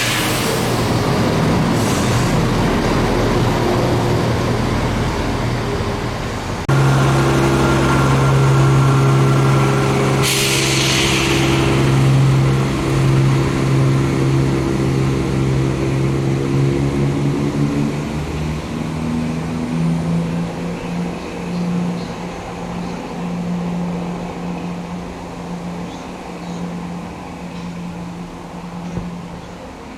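Diesel train running, then its engine suddenly opening up about seven seconds in, with a short hiss of air a few seconds later. The engine note holds steady for a while, then fades away over the last third.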